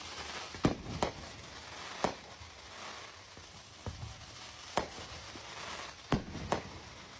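Fireworks going off at a distance: about seven sharp bangs at irregular intervals, two of them close together near the end, over a steady hiss of rain.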